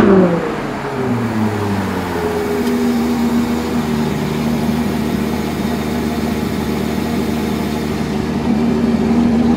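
Supercar engines idling steadily. In the first second or so the revs fall back from a blip and settle into the idle.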